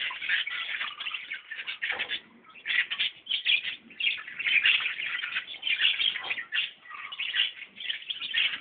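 Many small birds chirping and twittering at once, a dense, continuous chatter of short high calls with brief dips.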